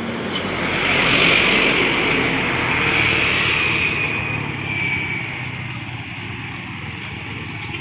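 A road vehicle driving past, its engine and tyre noise swelling over the first second, loudest for a couple of seconds, then fading away by about five seconds in.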